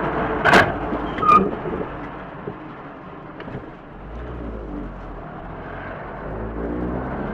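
Two sharp bangs about three-quarters of a second apart, the second with a short metallic ring, over the steady running of a vehicle's engine, which drops to a low hum about halfway through.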